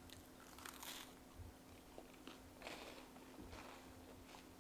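Faint crunching of a person biting into and chewing a crunchy homemade chocolate chip cookie, several short crunches spread over a few seconds.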